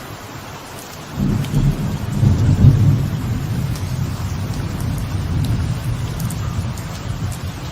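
Light rain falling steadily on a veranda, with a low roll of thunder that builds about a second in and rumbles on for several seconds as it slowly fades.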